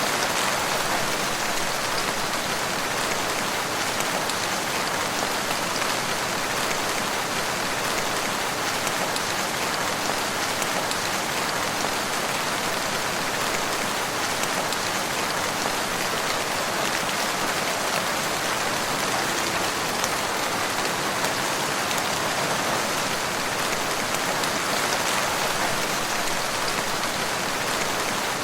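Steady rain falling on a forest, an even hiss with no breaks.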